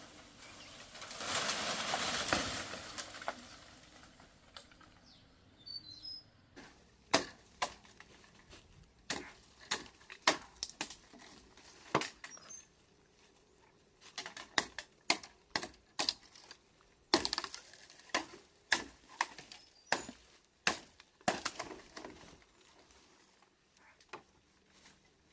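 A loud rustle, then a long, irregular run of sharp knocks and cracks, a couple to a few a second.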